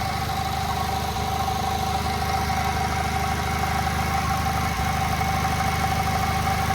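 The 824cc JAP model 55 stationary engine runs steadily on TVO, driving a 5 kW generator under a partial load of about 4 or 5 horsepower out of its maximum 8. An even low firing rhythm runs under a steady high whine.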